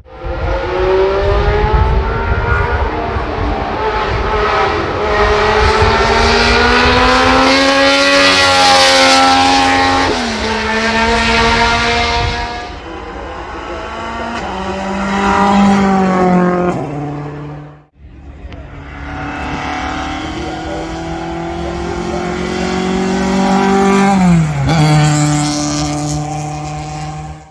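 Racing car engine at full throttle, its pitch climbing through each gear and dropping at every upshift. An abrupt break about 18 seconds in leads to a second car doing the same.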